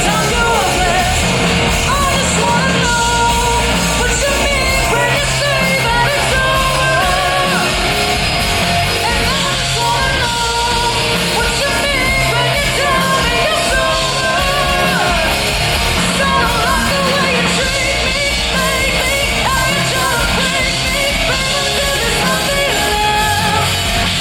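Live rock band playing loud, with a sung, partly shouted lead vocal over guitars, bass and drums.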